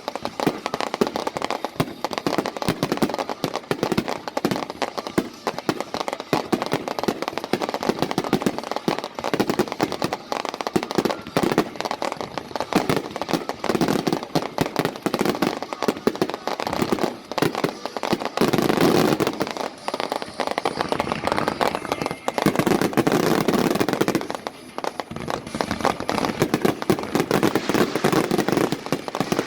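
Fireworks finale barrage: a dense, unbroken run of rapid bangs and crackling, swelling into several heavier surges in the second half.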